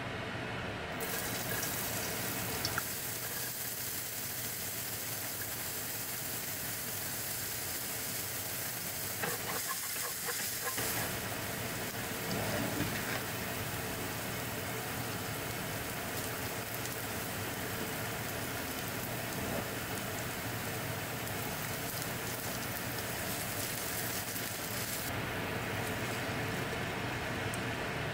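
Diced onion frying in oil in a nonstick frying pan, sizzling steadily, with a wooden spatula stirring it now and then.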